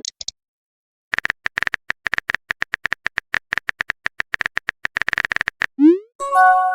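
Phone keyboard typing sound effect: rapid clicks for about four and a half seconds. Then a short rising swoop and a held electronic chime of several steady tones near the end, a message-sent notification.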